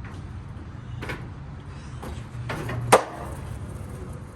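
Skateboard rolling on concrete, with a light click about a second in and a sharp clack of the board about three seconds in.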